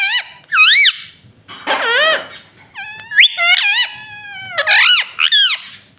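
Pet rose-ringed parakeet making a string of high, squeaky calls, each sliding up and down in pitch. There are about five calls, and the one in the middle is held the longest.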